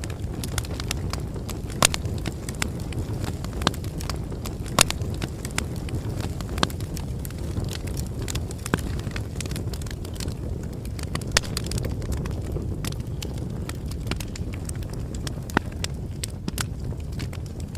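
Wood campfire crackling: irregular sharp snaps, a few of them much louder, over a steady low rumble of the burning fire.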